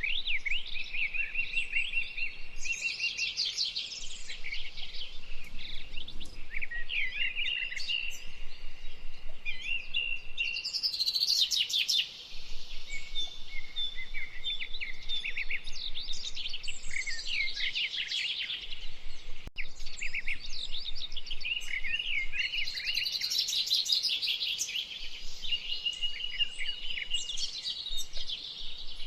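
Several birds calling and singing at once, with rapid chirps and trills over held whistled notes.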